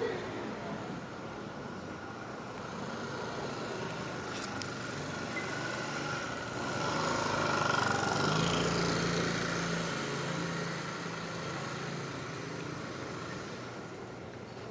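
Traffic noise as a motor vehicle passes, growing louder to a peak about eight seconds in with a low engine hum, then fading away.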